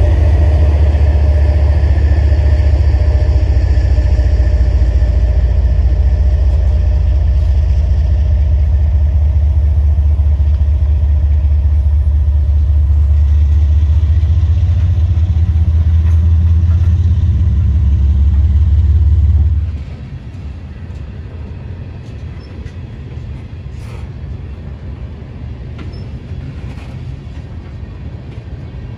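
Passing freight train: a loud, steady low rumble as the cars roll by. About twenty seconds in, it drops sharply to a quieter, even rolling of the cars' wheels on the rails.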